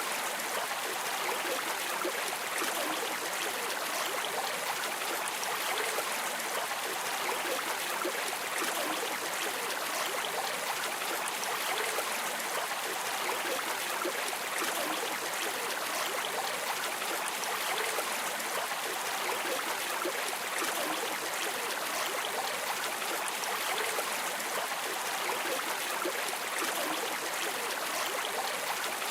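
Flowing stream water, an even, steady rushing and babbling.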